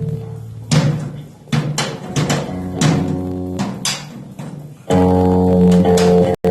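Live band music with no vocals: a held guitar chord dies away, scattered drum hits follow, and about five seconds in a loud sustained guitar chord comes back in. The sound cuts out for an instant just before the end.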